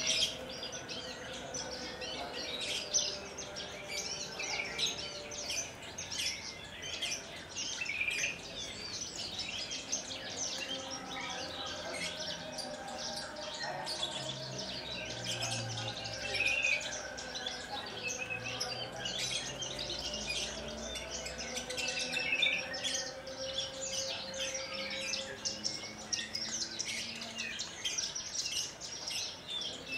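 Horsfield's bush lark (branjangan) singing a long, unbroken run of quick, varied chirps and trills.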